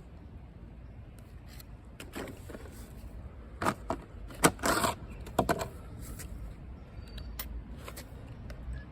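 A series of clicks and short scrapes, like something being handled, with a louder cluster about four to five and a half seconds in.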